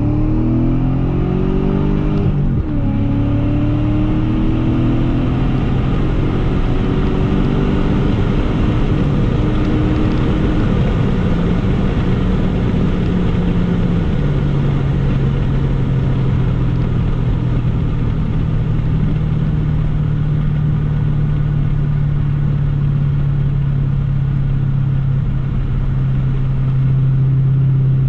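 BMW E39 540i's 4.4-litre V8, fitted with the older 4.0 V8 intake manifold, heard from inside the cabin: the engine note climbs after a brief break about two and a half seconds in, keeps rising until about ten seconds in, then settles to a steady cruise, stepping down slightly in pitch around fourteen seconds in. Steady road noise runs underneath.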